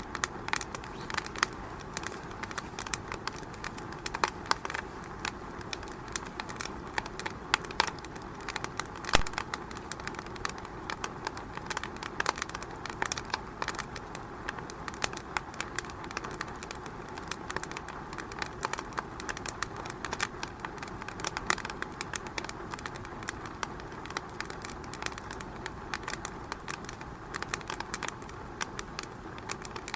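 Wood fire burning in a fireplace: a steady hiss with many irregular sharp crackles and pops, one louder pop about nine seconds in.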